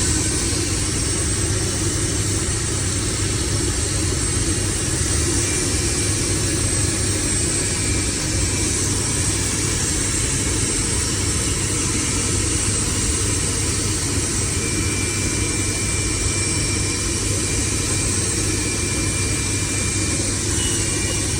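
Large power-plant turbine running steadily on its first start-up after a major overhaul: an even, loud machine noise with a low hum and a faint steady high whine.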